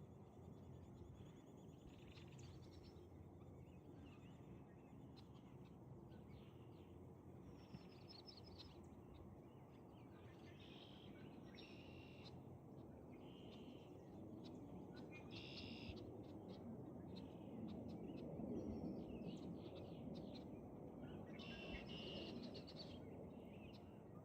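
Faint wild birdsong: short chirping phrases and calls every few seconds over a low steady rumble, which swells for a few seconds about three-quarters of the way through.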